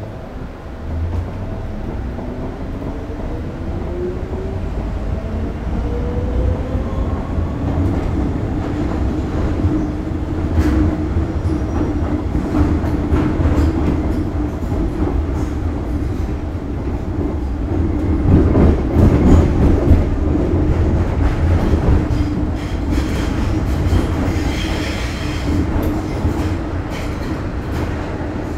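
Continuous mechanical running noise: a low rumble with whining tones that rise in pitch over the first few seconds, then settle into a steady hum with scattered clicks, growing louder in the middle.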